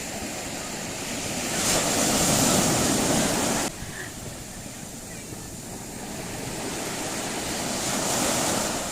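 Sea surf breaking on the shore, swelling twice: the first surge cuts off abruptly about four seconds in. Some wind buffets the microphone.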